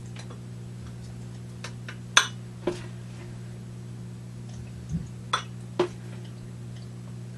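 A handful of sharp, light clicks and clinks of small hard items tapping against containers while filling them, the loudest a little over two seconds in and a quick cluster around five to six seconds. A steady low hum runs underneath.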